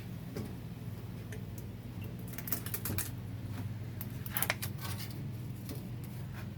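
Scattered light clicks and clinks of 4L60-E transmission parts being handled, in small clusters about two to three seconds in and again near four and a half seconds, over a steady low hum.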